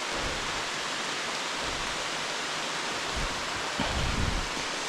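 Steady hiss of heavy rain falling. A few low rumbles come in about three to four and a half seconds in.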